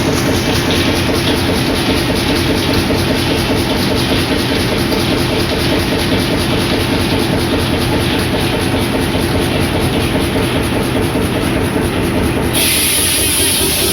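Old stationary engine driving sawmill machinery, running with a steady, rapid rhythmic beat. About twelve seconds in the sound changes abruptly to a louder high-pitched hiss, with the engine's low beat fainter.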